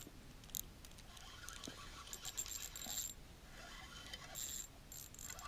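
Faint, intermittent clicking and light metallic rattling of a fishing reel being cranked while a hooked rainbow trout is played in, in two stretches with a short pause between them.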